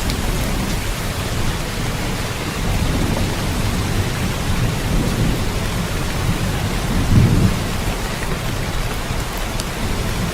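Steady rain falling, an even hiss, with low thunder rumbling underneath that swells a couple of times.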